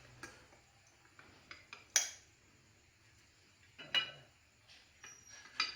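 Small metal parts and tools clinking and tapping as they are handled: a scattering of sharp clinks, the loudest about two seconds in and another about four seconds in.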